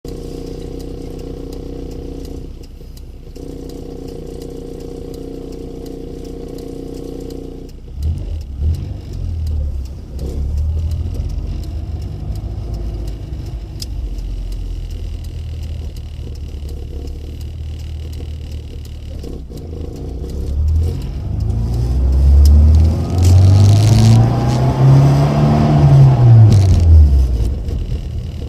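Rover Mini's A-series four-cylinder engine through an aftermarket Rookie muffler. It runs steadily for the first several seconds, then pulls away with the exhaust note rising and falling. Near the end the revs climb to a loud peak and drop off again.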